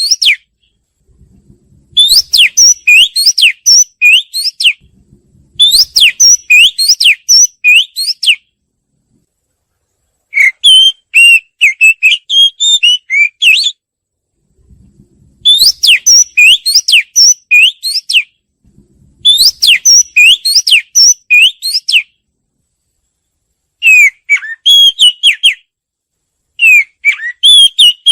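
Oriental magpie-robin singing: seven phrases of loud, clear whistled notes, each phrase two to three seconds long, with short silent gaps between them.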